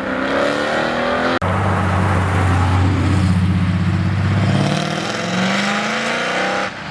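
A car engine revving hard under acceleration. The pitch climbs, holds steady at high revs for about three seconds, then climbs again.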